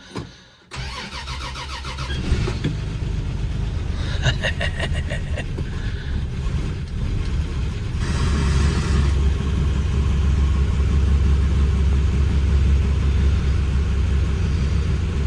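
Plymouth Belvedere cold-started after sitting a month in freezing weather: the starter cranks briefly to fill the empty carburetor, then the engine catches about two seconds in and keeps running. It gets louder from about eight seconds in.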